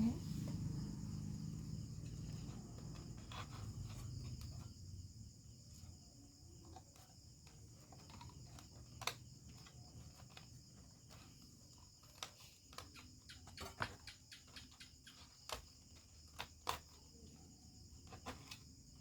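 Crickets trilling steadily, with scattered small clicks and taps throughout.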